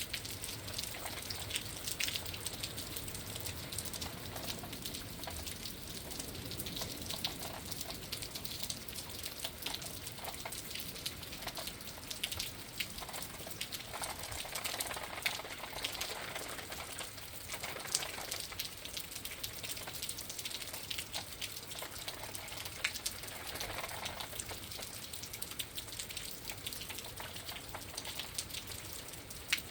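Rain and wind outside a window: a steady hiss of rain dotted with many small drop ticks, with a few louder swells now and then.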